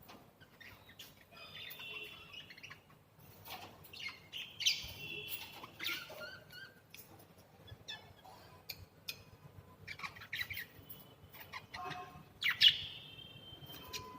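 Budgerigar chirping and chattering in short runs of quick notes and clicks, with louder calls about five seconds in and again near the end.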